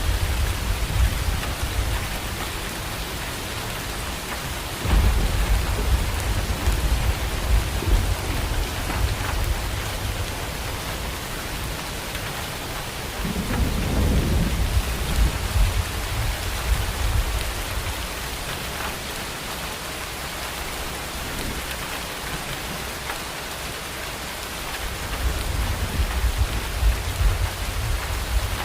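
Steady rain with low rolls of thunder, three of them: one breaking suddenly about five seconds in, another around the middle, and a third near the end.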